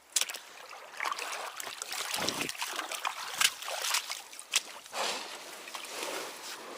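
Water trickling and splashing, with scattered small knocks and a dull low thump about two seconds in.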